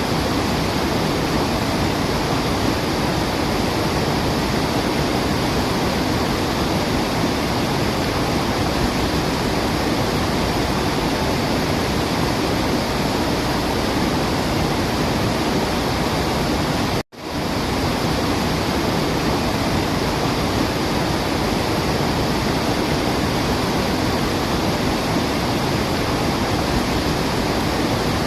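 Steady, dense rush of falling water, an even roar with no birdsong heard above it. It cuts out for an instant about 17 seconds in, then fades straight back in, as at a loop seam.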